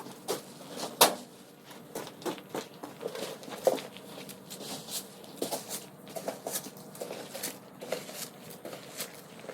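Footsteps crunching on snow at a walking pace, about two steps a second, with a sharper knock about a second in.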